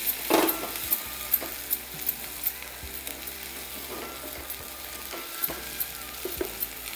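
Food frying in oil in a pan: a steady sizzle with frequent small crackling pops.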